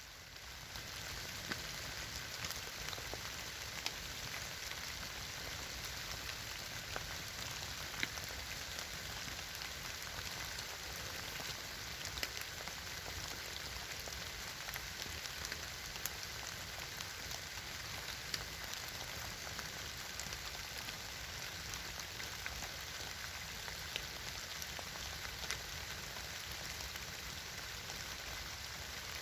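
Wood campfire burning: a steady hiss with frequent crackles and sharp pops.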